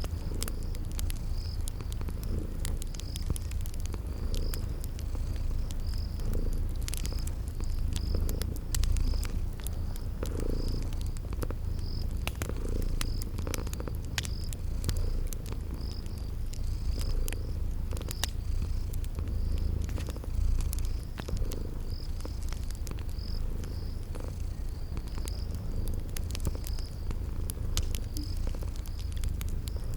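Cat purring with a deep, continuous rumble over a crackling fire's scattered sharp pops. A cricket chirps high and evenly, about once a second.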